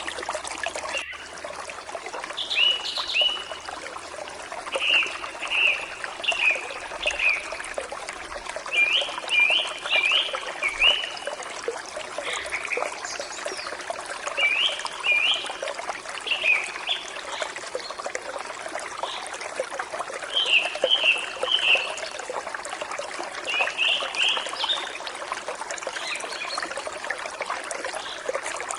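Forest stream flowing steadily, with a bird giving short, sharp call notes in quick clusters every few seconds.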